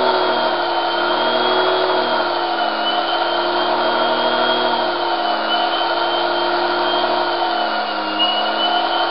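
Series-wound brushed DC motor running under throttle from a Kelly KDZ48400 controller: a steady high whine over a lower hum, the pitch drifting slightly up and down as the speed varies.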